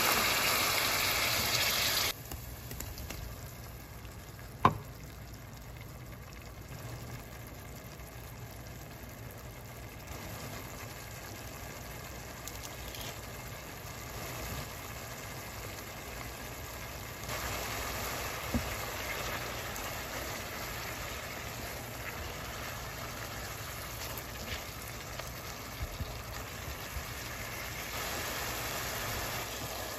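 Minced ginger and garlic frying in hot oil, sizzling loudly just after a splash of water goes into the pan, then dropping abruptly about two seconds in to a quieter steady sizzle that rises a little later on. There is a sharp knock about five seconds in and a few faint clicks.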